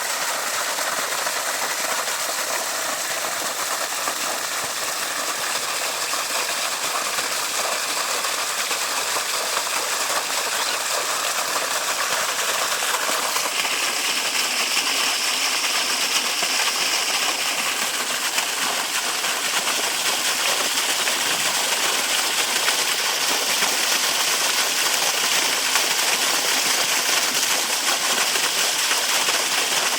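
Small waterfall: water falling and splashing steadily. The sound grows a little brighter and louder about halfway through.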